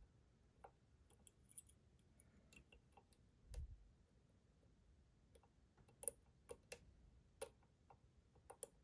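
A lock pick and tension wrench clicking faintly in the keyway of a Schlage Primus Everest cylinder as its pins are picked. Scattered sharp ticks come thicker in the second half, with one dull low thump about three and a half seconds in.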